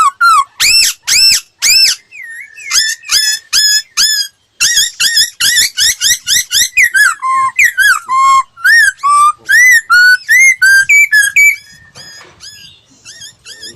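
A laughingthrush (khướu) singing a rapid, varied song of loud, clear whistled notes that slur up and down in quick repeated phrases, with a brief pause about a third of the way in and softer scattered notes near the end. It is a training song for teaching caged laughingthrushes to sing.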